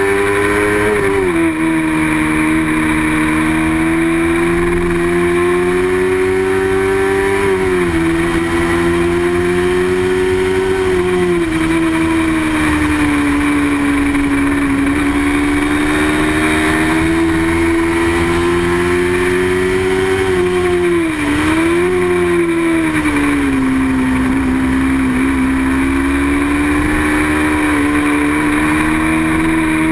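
A small-displacement racing motorcycle's engine running hard through a race. Its pitch dips briefly and climbs back about a second in, around eight seconds and around twenty-one seconds in, as revs drop and build again.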